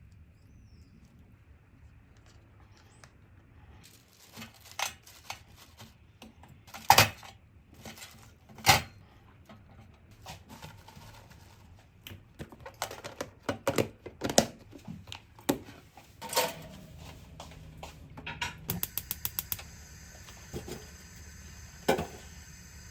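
Kitchen prep sounds: scattered sharp knocks and clatter of utensils and dishes on a counter, then a quick run of rapid clicks near the end.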